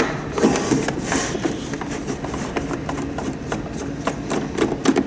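Handling noises from the humidifier teardown: scattered clicks, taps and knocks of the unit and tools being moved and worked on.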